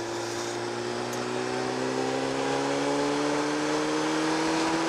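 Kawasaki ZX-7R's inline-four engine pulling under load, its revs climbing slowly and steadily as the motorcycle accelerates, over a steady rush of wind and road noise.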